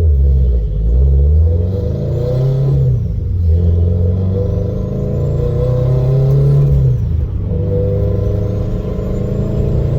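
Turbocharged Scion FR-S flat-four running through a Remark quad-tip exhaust, its note climbing with the revs and dropping back twice, about three and seven seconds in.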